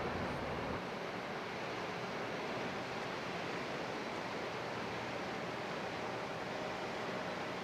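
Steady rushing noise of river water and wind at the microphone, with a faint steady hum underneath in the second half.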